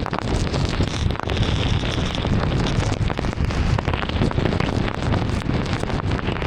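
Heavy rain hitting a moving car: many small drop impacts over a steady low rumble of tyres on the wet road.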